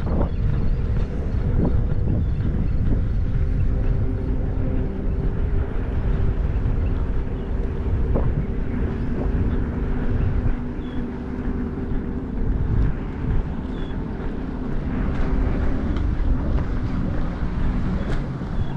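A motor droning steadily, its hum holding several steady tones, over a low rumble of wind on the microphone.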